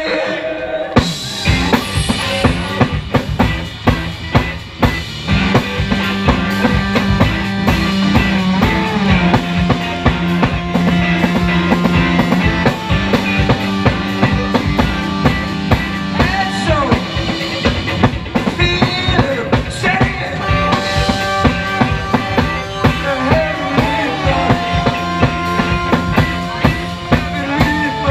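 Live band playing an instrumental passage of an indie-pop song: a drum kit with bass drum and snare drives a steady beat under held notes from the other instruments, the full band coming in about a second in.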